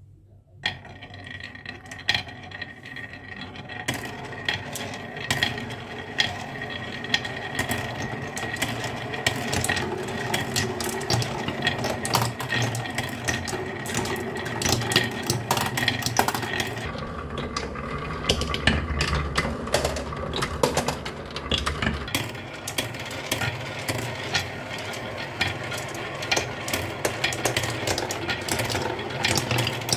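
Many marbles rolling and clattering down a marble run track in a dense, continuous stream of clicks and knocks over a rolling rumble, starting about half a second in.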